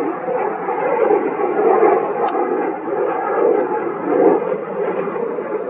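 Jet noise from an F-35A's single turbofan engine: a steady, loud rushing noise that swells and fades slightly every second or so.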